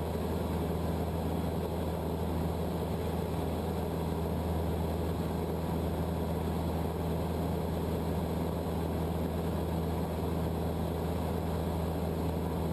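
Cessna 152's four-cylinder Lycoming engine and propeller droning steadily in flight, heard from inside the cabin, with a constant low hum and no change in power.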